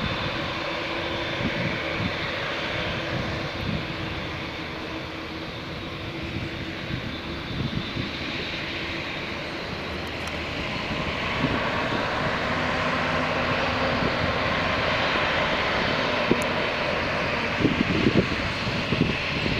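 Jet engines of a Boeing 787-9 (Rolls-Royce Trent 1000s) at takeoff power, a steady rush with faint whining tones that grows louder about eleven seconds in, with low crackling pulses near the end.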